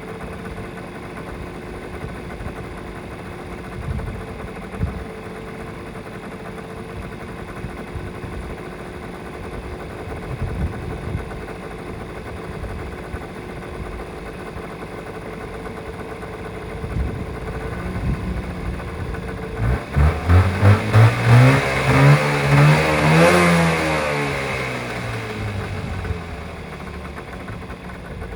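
Mitsubishi Minica 360 GSS's small two-stroke twin-cylinder engine, fed by twin Solex carburettors, idling. About twenty seconds in, it is blipped several times in quick succession, then revved up once and let fall back to idle.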